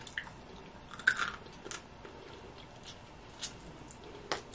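Quiet, close-miked chewing and mouth sounds of eating steamed blue crab meat, with a few short crackles and clicks, the sharpest near the end.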